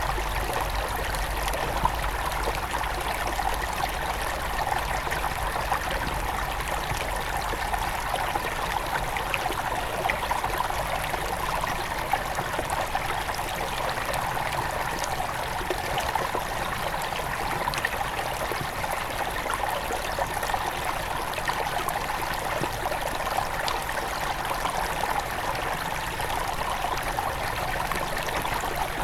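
Small river running steadily over stones, a continuous rushing and trickling of water with fine splashes.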